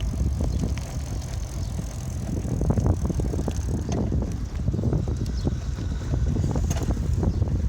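Bicycle ride: wind buffeting the microphone as a steady low rumble, with frequent small rattles and knocks from the bike over the ground.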